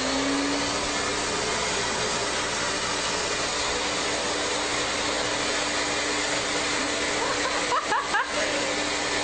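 Vacuum cleaner motor running steadily just after being switched on, its whine rising briefly as it spins up and then holding. A few short high squeaks come near the end.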